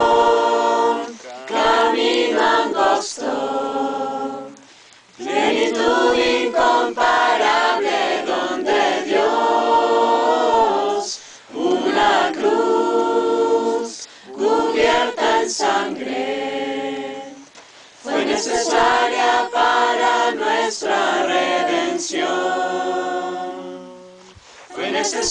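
A group of voices singing a Spanish-language Christian worship song together, in phrases broken by short pauses for breath.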